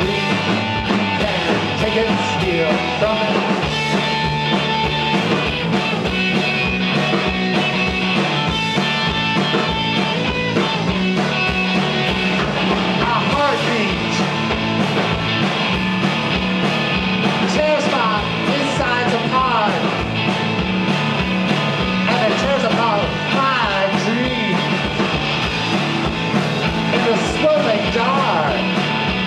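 Live rock band playing an instrumental passage, with a lead line bending up and down in pitch over a steady drum beat.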